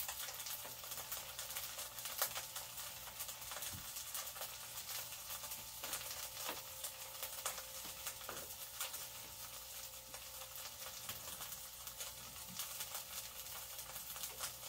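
Potato-starch-coated tofu cubes shallow-frying in oil in a frying pan. The oil gives a steady sizzle, dotted with many small crackling pops.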